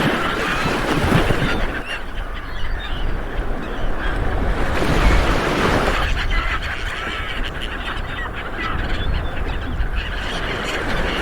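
Light waves breaking on a beach, surging twice a few seconds apart, with birds calling overhead, most often near the start.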